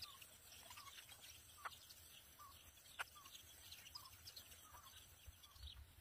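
Faint bird chirps: a short chirp repeated about once a second, with thinner, higher twitters between. Two sharp clicks cut through, the second one, about halfway through, being the loudest sound.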